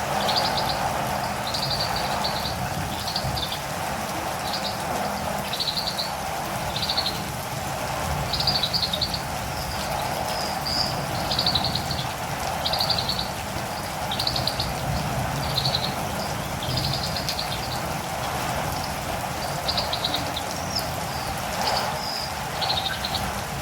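Steady rain, with a catirumbava bird calling over it in short, high, rapid trilled chirps, repeated about once a second.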